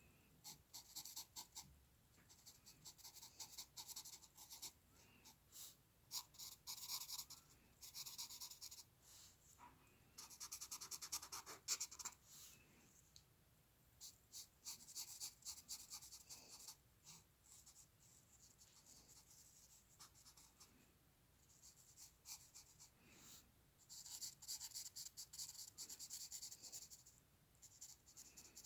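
Faint scratching of a drawing tool on paper in runs of quick short strokes broken by brief pauses, as a picture is drawn by hand.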